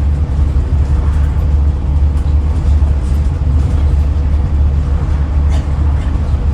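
Interior of a Scania N94UD Omnidekka double-decker bus on the move: steady, loud low rumble of the engine and running gear.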